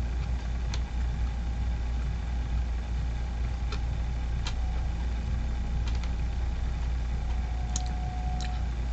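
A steady low rumble, with a few short clicks from eating a sandwich scattered through it.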